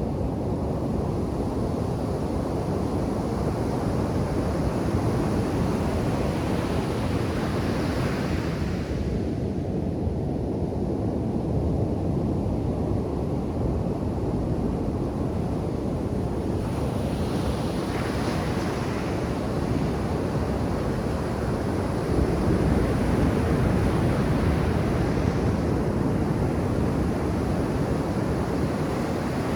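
Ocean surf breaking on a sandy beach: a continuous low rumble of waves, with the hiss of foam washing up several times, and wind on the microphone.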